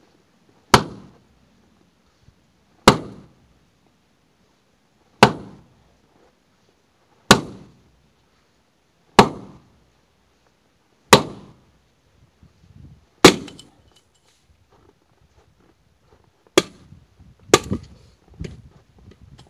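Firewood being split with an axe: about ten sharp cracking strikes, roughly one every two seconds, with a longer pause and then a few quicker, lighter strikes near the end.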